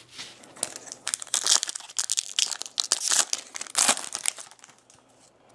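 Foil trading-card pack wrapper crinkling and tearing as it is opened: a rapid run of crackles that stops about four and a half seconds in.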